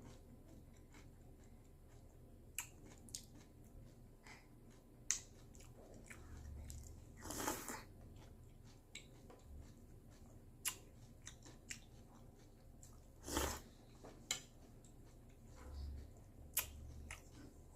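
Close-miked chewing and crunching of cereal, with sharp crunches at irregular intervals and two longer, noisier sounds about seven and thirteen seconds in.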